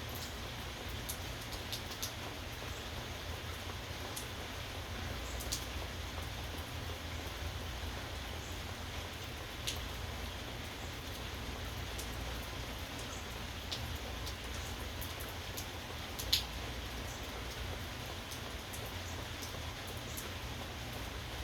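Steady rain falling, with individual drops ticking sharply on a nearby surface every second or so; the loudest tick comes about 16 seconds in. A steady low rumble runs underneath.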